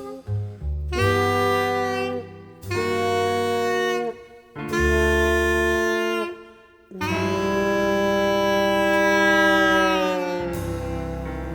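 Jazz alto saxophone with brass playing a slow phrase of long held notes: three notes of about a second and a half each with short breaks, then a final note held about three seconds before it falls away into quieter accompaniment.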